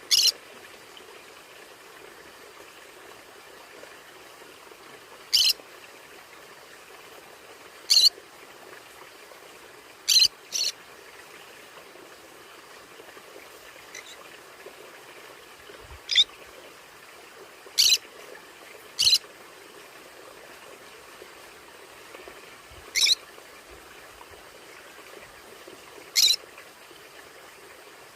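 Conures giving short, sharp single calls, about ten of them a few seconds apart, some in quick pairs, over a steady faint hiss.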